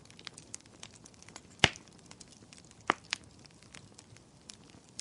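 Burning firewood crackling, with scattered small snaps and a loud pop about a third of the way in, then two more sharp pops close together past the middle.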